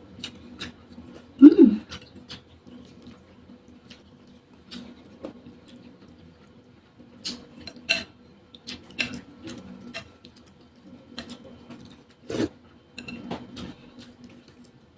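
Close-up eating sounds: a spoon clinking and tapping against a bowl in scattered strokes, with mouth and chewing noises, including a short louder mouth sound about one and a half seconds in.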